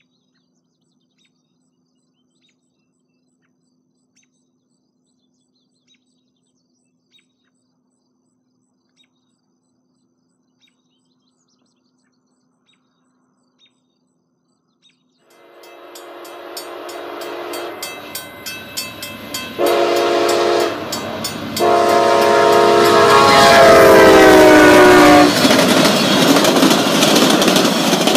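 VIA Rail passenger train approaching and passing, its diesel locomotive sounding the horn in several blasts. The last blast is long and drops in pitch as the locomotive goes by, followed by the rumble and clatter of the passenger cars rolling past. For about the first half there is near silence before the train is heard.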